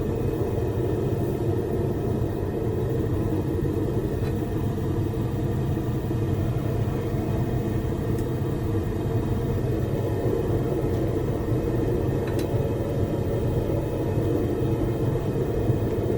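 Propane gas forge's burners running: a steady, low, even rushing sound that does not change, with a few faint ticks.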